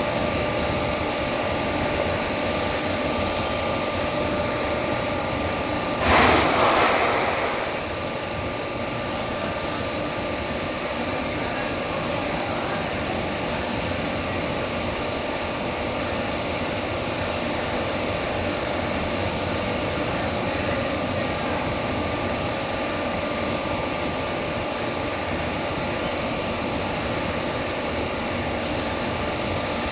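Vertical lathe running: a steady machine-shop hum with faint steady tones. About six seconds in, a loud burst of hiss rises above it and fades out over about a second and a half.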